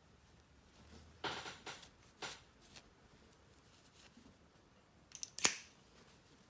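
Hand polishing of a metal sonic screwdriver prop: a cloth scuffing over the metal about a second in and again briefly just after, then a quick cluster of sharp clicks from the handled prop a little after five seconds.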